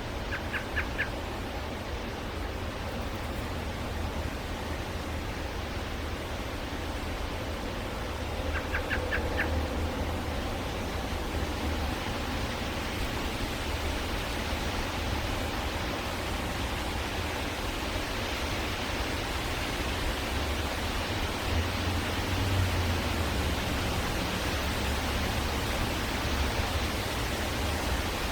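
A steady outdoor hiss and low rumble, with two short runs of three or four quick, high bird chips: one about half a second in and one about nine seconds in.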